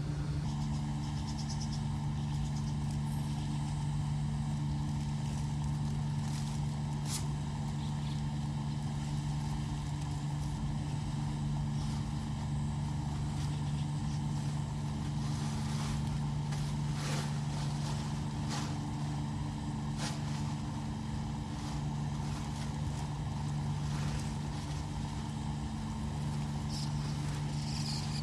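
A steady motor drone holding the same few low pitches throughout, with a few brief clicks over it.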